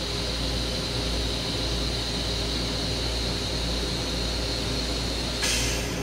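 Steady low rumble and hiss of a Long Island Rail Road M7 electric railcar, heard from inside its restroom. A high hiss runs steadily, then ends with a brief louder rush about five and a half seconds in.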